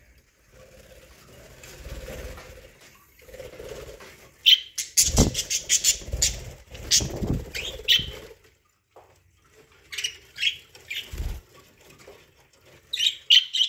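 Pet budgerigars chirping in short clusters of high calls, with wing flutters and a few low thumps.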